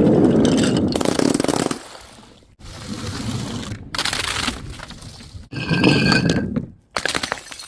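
Objects cracking and breaking with crunching noise, in a string of short clips that cut off abruptly one after another. About six seconds in, one break rings with a few clear glassy tones.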